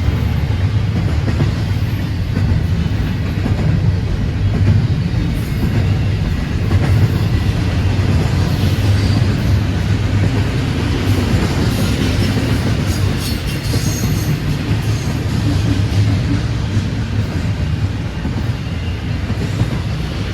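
Freight train rolling past with a steady rumble, and a few high wheel squeals around the middle.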